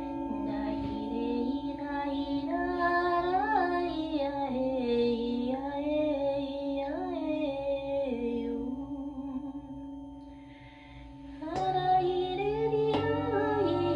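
Singing bowls ringing with steady held tones while a woman's wordless, gliding vocal melody sings over them for most of the first eight seconds. The sound fades briefly, then bowls are struck twice near the end, each strike starting a fresh ringing tone.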